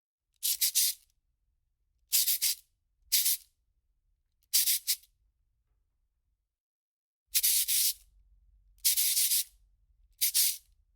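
Cartoon sound effect: seven short hissing bursts at uneven gaps, each lasting about half a second and made of a few quick pulses.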